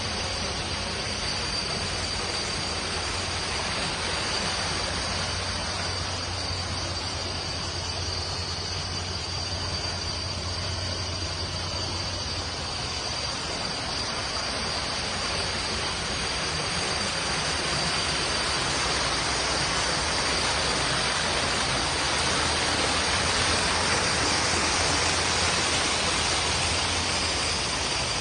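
Steady rushing outdoor noise with a thin, steady high whine over it, getting a little louder about halfway through.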